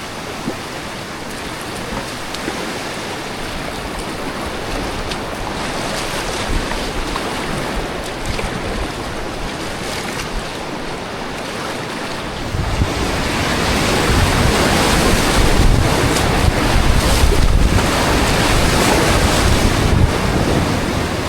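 Whitewater river rapids rushing as a steady noise. About twelve seconds in it grows louder, with low buffeting rumble on the microphone.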